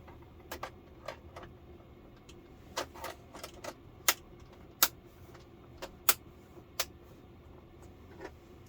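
Plastic clips being pressed onto the LCD TV's backlight frame: an irregular run of sharp plastic clicks and taps, the loudest a little after four seconds, near five and near six, over a faint steady hum.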